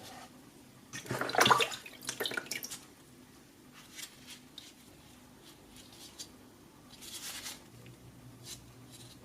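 Workbench handling noises: an irregular cluster of clicks and rattles about a second in, then scattered small knocks and clicks.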